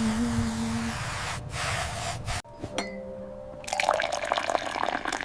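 Water pouring and dripping, with a break about halfway and small clicks near the end.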